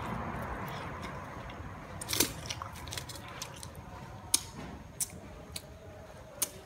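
Close-miked chewing of fried chicken wings, with a handful of sharp crunches, the loudest about two seconds in and just after four seconds.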